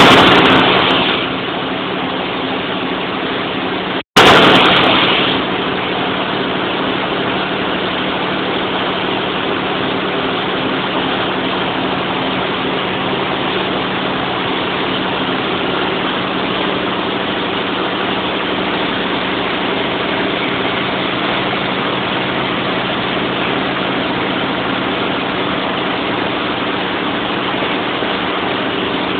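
Large generator set engine running steadily, a dense mechanical hum with a constant low drone. There is a brief break about four seconds in, after which it carries on unchanged.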